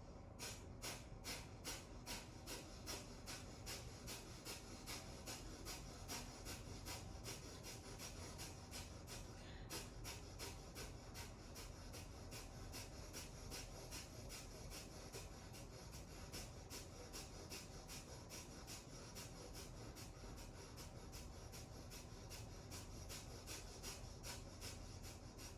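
Rapid, forceful exhales through the nose in kapalabhati (breath of fire) pranayama, one short puff after another in an even rhythm, each pushed out by a contraction of the belly with a passive inhale between. There is a brief break about ten seconds in.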